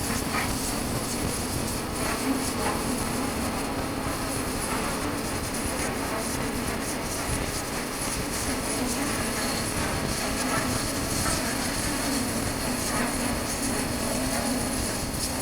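Honda CB400X's parallel-twin engine running at a steady cruise, with wind noise rushing over the rider's chest-mounted microphone.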